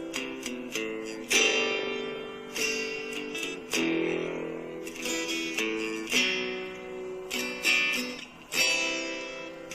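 Acoustic guitar music: strummed chords struck about once a second, each ringing and fading before the next.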